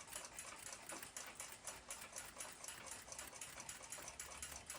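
Faint, fast, even ticking of a clock's escapement, several ticks a second.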